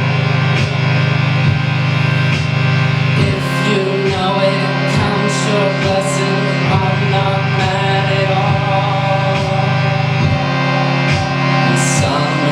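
A rock band playing loud, guitar-driven music with a heavy steady low drone and regular drum hits, without words.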